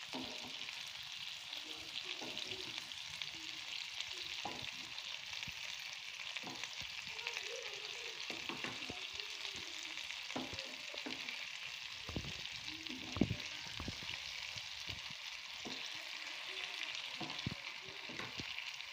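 Thick egg masala sizzling steadily in a pan while a wooden spatula spreads it over halved boiled eggs. Light scrapes and taps of the spatula against the pan come through now and then, with one sharper tap about two thirds of the way through.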